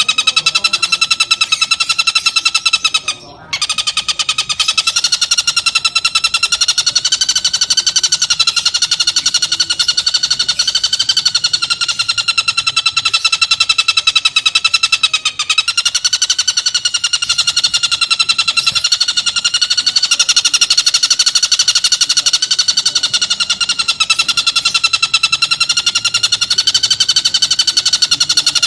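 Tengkek buto kingfisher giving a continuous rapid, harsh trill, high and steady in pitch with slight wavers, broken once briefly about three seconds in.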